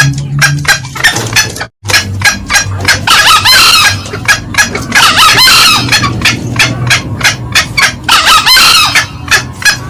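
Green junglefowl calls, male and female: rapid short cackling notes at about four a second, with three longer crowing calls about every two and a half seconds. A short gap cuts the sound a little under two seconds in.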